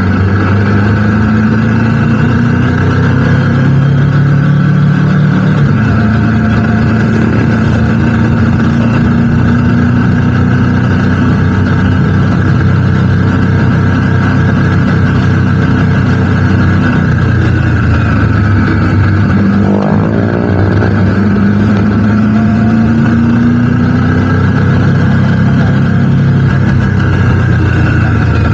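Motorcycle engine running under way, its pitch rising and falling with the throttle. About twenty seconds in, the sound dips briefly and then climbs again, as in a gear change.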